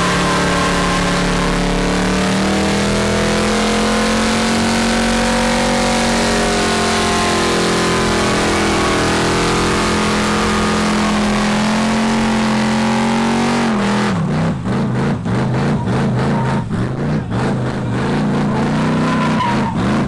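Car engine held at high revs for about fourteen seconds. The revs then drop into a quick stuttering run of short rev pulses, and climb again near the end.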